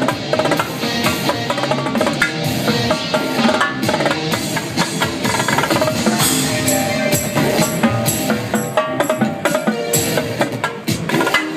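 Electronic dance music with live drums and percussion played over it: a steady stream of sharp drum and wood-block-like strikes on top of the beat.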